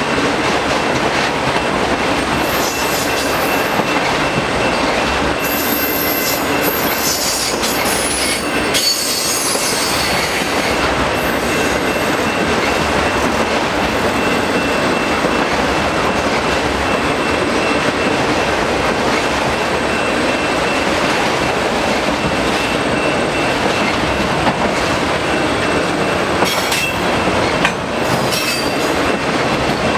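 A long train of autorack freight cars rolling slowly past, with a steady rumble and rattle of steel wheels on rail. High-pitched wheel squeal comes and goes, from about 3 to 10 seconds in and again near the end.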